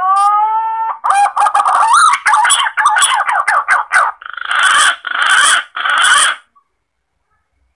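Green pigeon (punai) call played as a hunting lure: a rising whistled note, then a quick run of warbling whistled notes, then three harsher, raspier notes of about half a second each. It stops a little over a second before the end.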